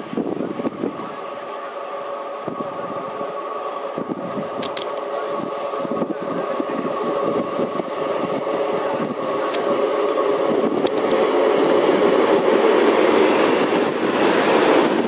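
Two Class 143 Pacer diesel multiple units running through the station, the sound getting louder over the first ten seconds or so and then holding, with a steady high whine over the rail noise.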